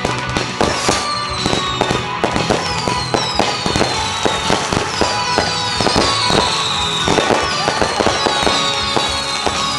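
Fireworks display going off: rapid bangs and crackles with repeated high whistles falling in pitch, over music playing.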